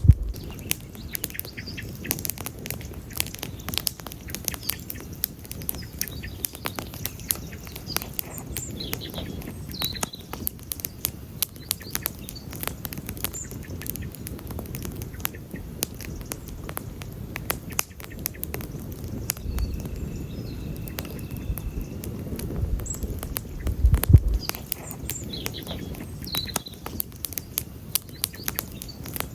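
Wood campfire burning, crackling with frequent sharp snaps and pops over a low steady rush of the flames. A few brief low rumbles come in the second half, the strongest about 24 seconds in.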